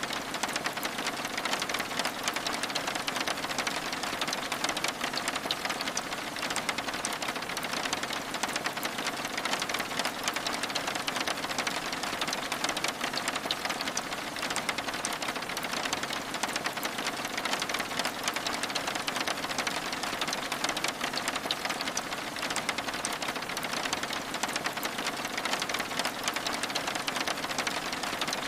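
Steady rain pattering on window glass: a dense, even patter of fine drop ticks over a constant hiss that does not change.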